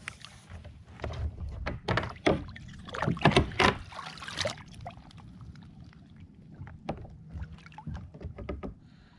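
Sharp knocks and clatter against a sit-on-top fishing kayak, a thick run of them in the first half and scattered clicks later.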